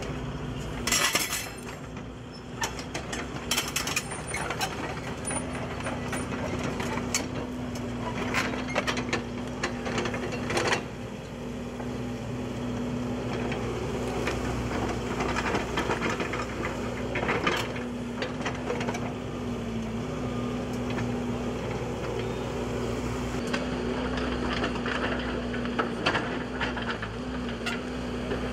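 A steady engine hum at one unchanging pitch, with irregular crackles and knocks over it.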